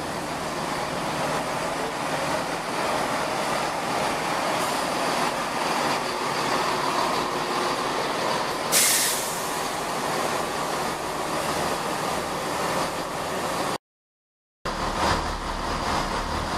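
Chiltern Railways Class 165 diesel multiple unit drawing in along the platform to terminate, its diesel engines and wheels running steadily, with a short burst of air hiss about nine seconds in. After a brief cut near the end, a CrossCountry Voyager diesel unit approaches with a low engine rumble.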